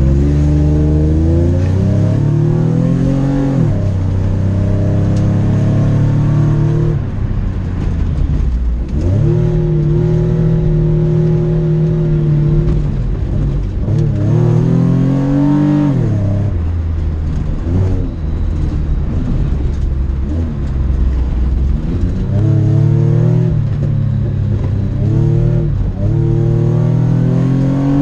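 Car engine driven hard through an autocross course, revving up and dropping again several times as the driver accelerates, lifts and brakes between cones, with one stretch held at steady revs in the middle.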